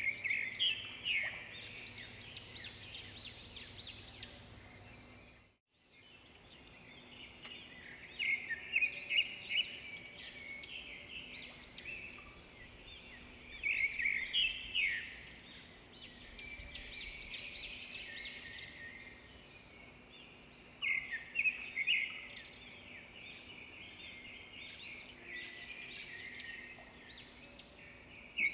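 Songbirds chirping in bouts of rapid high notes that recur every six or seven seconds, with softer chirping between the bouts. The sound cuts out for a moment about a fifth of the way in.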